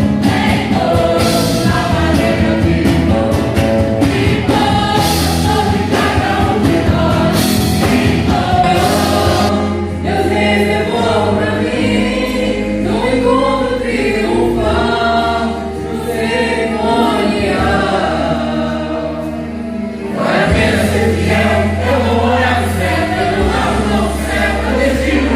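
Gospel song: a choir singing over instrumental accompaniment with long held bass notes.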